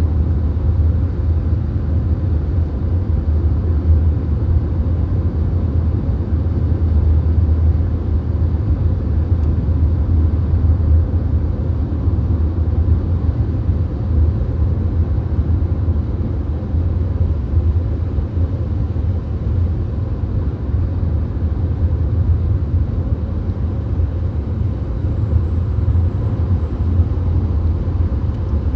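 Steady low rumble of a VW Golf cruising at motorway speed, heard from inside the cabin: road and tyre noise with wind. It holds even and unchanging, with no gear changes or passing events.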